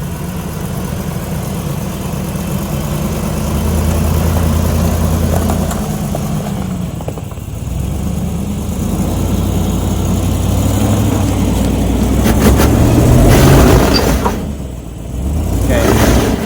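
Lifted Chevrolet Suburban's engine pulling under load as it crawls over rocks, the revs rising twice. Near the end, loud bursts of grinding and clicking come from the tyres working over the rock.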